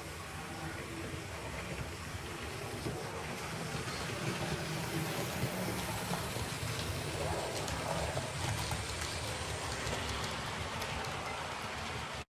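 Vintage model train running on the layout's track: a steady motor hum and wheel rumble with faint crackle, swelling slightly in the middle.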